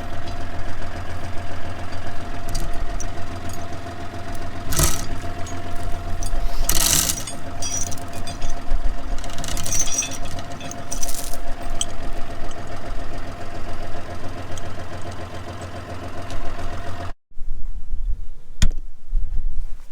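John Deere 5210 tractor's diesel engine running steadily, with a few short gusty bursts of noise over it. The engine sound cuts off abruptly about 17 seconds in, leaving a low rumble and a sharp click.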